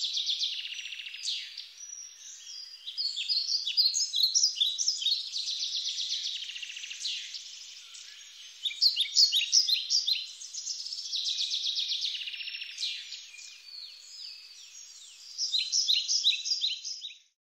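Small songbirds singing: a continuous mix of high chirps and fast trills of rapidly repeated notes, with several louder bursts of quick chirps, cutting off abruptly near the end.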